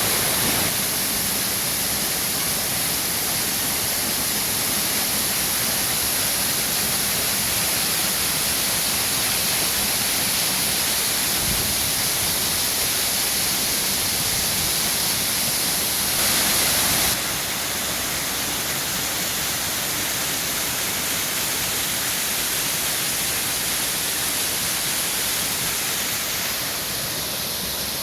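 Waterfall in strong flow after days of rain in the mountains: a steady rush of falling water, briefly louder and brighter about two-thirds of the way through.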